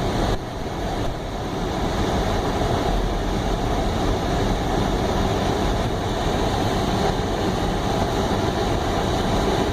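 Steady road noise inside a moving car: tyre and engine noise while driving.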